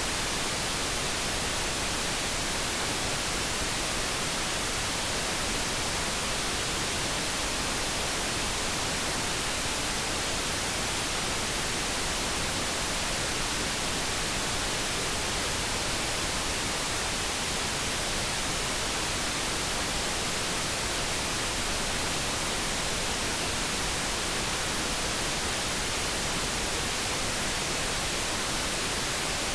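Steady generated noise, an even hiss with no tones or events and no change in level.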